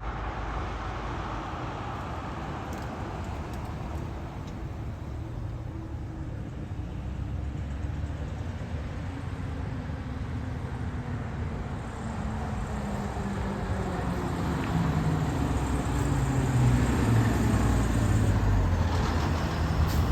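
Fire engine approaching over road traffic noise, without a siren, its engine growing steadily louder through the second half.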